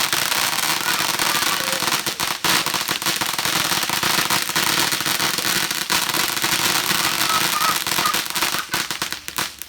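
Fireworks crackling: a dense, continuous rattle of many small rapid pops that stops abruptly near the end.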